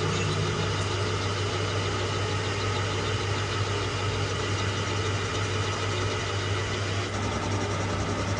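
A metal lathe running steadily, a continuous machine hum with a whine of many steady tones; the sound changes slightly about seven seconds in.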